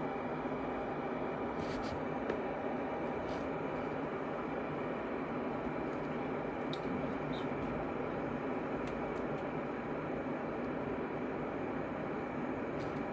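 Hanabishi cordless electric kettle heating a litre of water: a steady rushing noise, with a few faint ticks.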